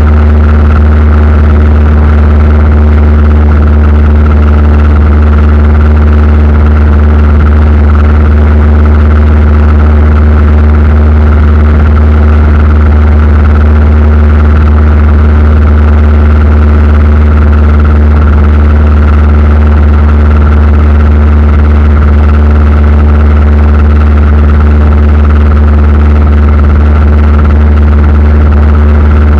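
Steady, loud drone of an aircraft's engines, unchanging throughout, with a strong low hum and a few fixed higher tones over it.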